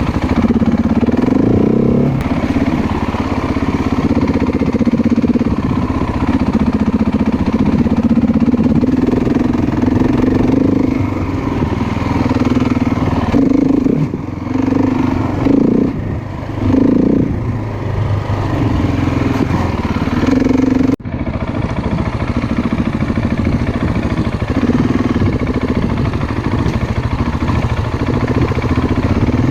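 Motorcycle engine running under way on a dirt trail, the throttle eased off and opened again several times in the middle, with a sudden brief drop in sound a little past two-thirds through.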